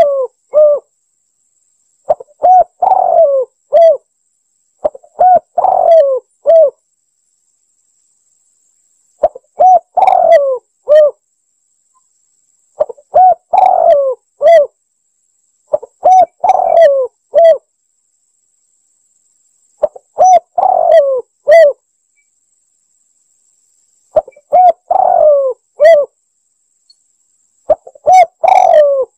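Spotted dove (tekukur) cooing. Each phrase is a run of several coos, and the phrase repeats about every three to four seconds with silence between, as a lure call.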